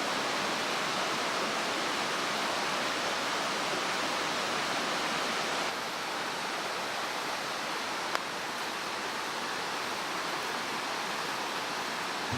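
Mountain stream rushing steadily, with a single sharp click about eight seconds in.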